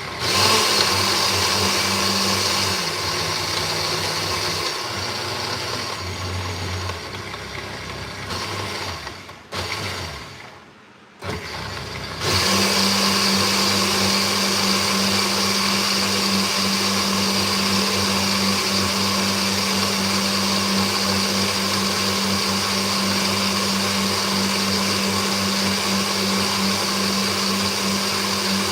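Electric kitchen blender running, blending ingredients for plantain porridge. Its motor pitch shifts a few times early on as the settings change. It cuts out briefly twice about ten seconds in, then starts again and runs steadily.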